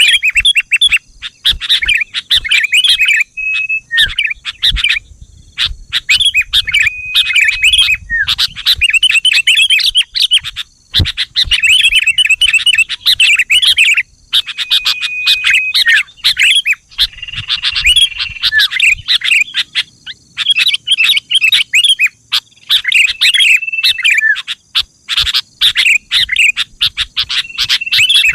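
Sooty-headed bulbul (kutilang) singing: quick chattering phrases broken by short clear whistled notes, repeated with brief pauses, in a recording used as a lure to get other bulbuls calling.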